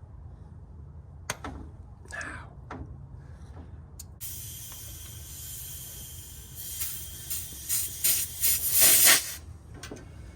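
A few sharp clicks, then a hiss that starts suddenly, swells into several loud spurts and stops shortly before the end.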